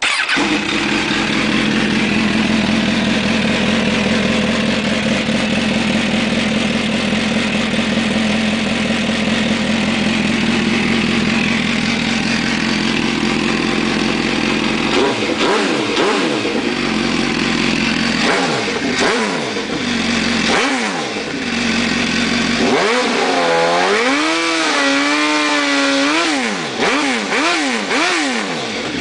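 MV Agusta F4 1000S inline-four motorcycle engine with a modified exhaust, idling steadily and then revved repeatedly. From about fifteen seconds in it is blipped several times, each rev rising and falling quickly, with a quicker run of rising and falling revs near the end.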